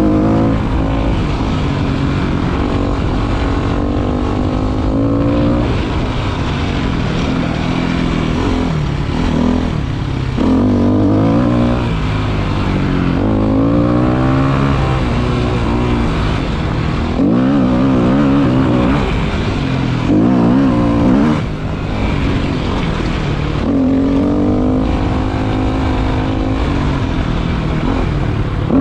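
Motorcycle engine under way, its pitch rising and falling again and again as the throttle opens and closes through the gears, sometimes wavering.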